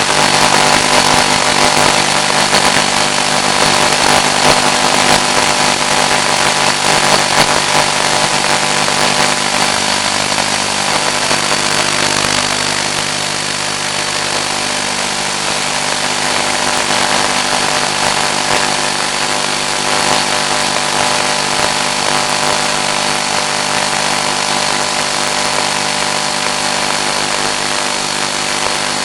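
Steady hiss with a constant hum and whine, as carried on the audio channel of an analog 1.3 GHz FPV video link.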